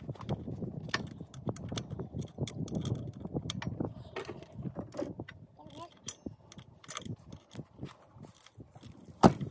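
Hand ratchet wrench clicking in irregular runs as alternator mounting bolts are loosened, with clinks of metal tools, and one loud sharp clank just before the end.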